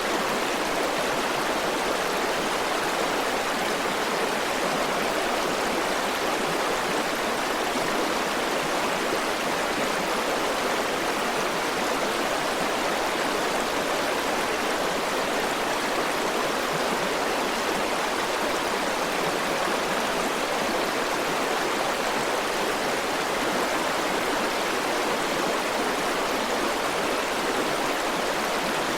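River water flowing steadily, an even rushing with no change in level.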